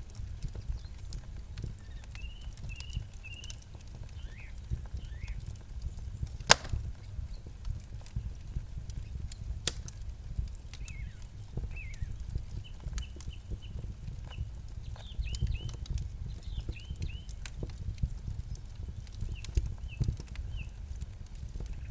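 Campfire crackling and popping with a steady low rumble, one sharp pop much louder than the rest about six and a half seconds in. Small birds chirp in short repeated calls through the fire's crackle.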